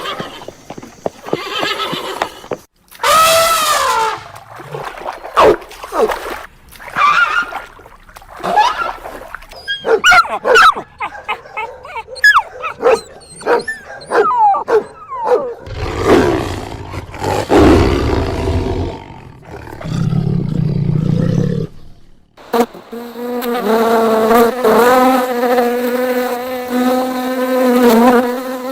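A string of different animal calls, one after another: short pitched cries and chirps, then deep low calls in the middle, and a long, steady pitched call near the end.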